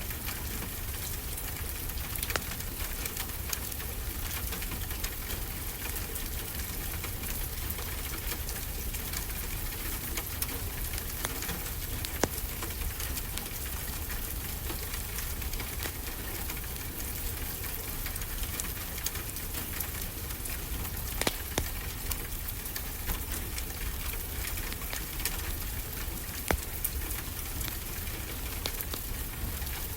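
Wood fire crackling: a dense stream of small crackles with a few sharper pops, over a steady hiss and a low rumble.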